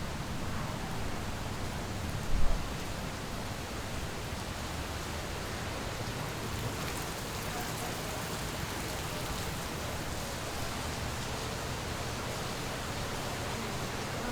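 Steady outdoor background hiss with no clear source, with one brief low thump a little over two seconds in.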